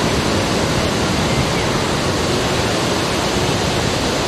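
Steady, even rushing of sea surf at the shore.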